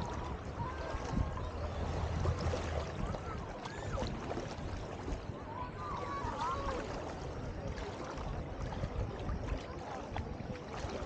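Beach ambience: sea water washing at the shore, with faint, distant voices of people.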